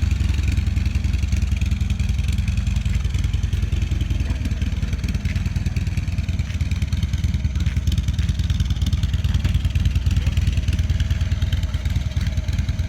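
2016 Harley-Davidson Ultra Glide's V-twin engine idling steadily.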